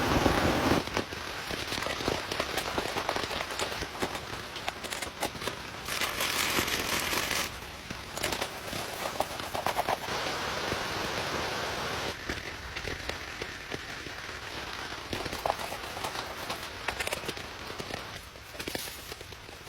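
A dense rush of rain noise that drops away about a second in, followed by a long run of irregular crackling clicks and taps over a lighter hiss.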